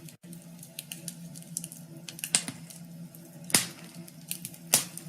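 Crackling, like a wood fire: irregular sharp pops and snaps, a few of them much louder, over a low steady hum.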